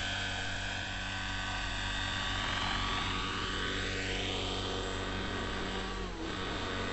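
Glow-fuel (nitro) engine and rotors of a Neo Caliber 50 radio-controlled helicopter running in flight, a steady mechanical drone with a high whine whose pitch falls and rises several times as the helicopter moves about, dipping sharply about six seconds in.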